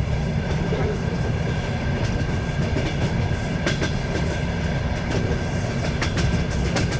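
Train wheels on the rails, heard from aboard a moving train: a steady low rumble with occasional sharp clicks as the wheels pass rail joints.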